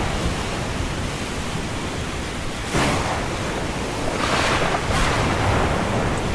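Ocean surf: waves washing in over a steady rushing noise. One wave breaks suddenly about three seconds in, and another swells up a second or so later.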